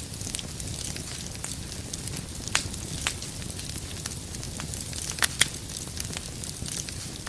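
Wood fire burning in a fireplace: irregular sharp crackles and pops over a steady low rustle of flames, the loudest pops about two and a half seconds in and a close pair just past five seconds.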